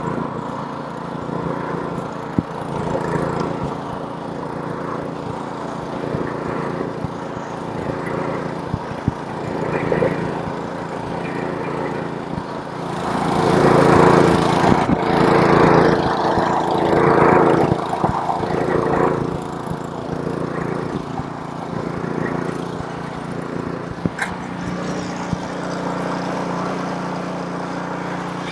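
Gas snowblower's small engine running steadily while clearing snow. The sound grows louder and fuller for several seconds about halfway through, with an occasional sharp click.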